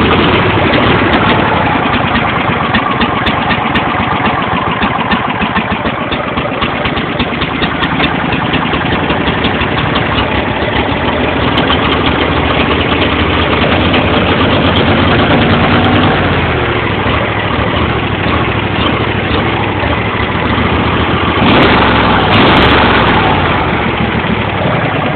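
John Deere L111 riding mower's 20 hp Briggs & Stratton V-twin engine running steadily, then dropping in speed about two thirds of the way through, with a louder spell near the end.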